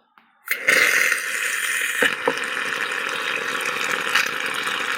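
Water tap turned on about half a second in, running steadily into a sink, with a few light clicks and knocks in the basin.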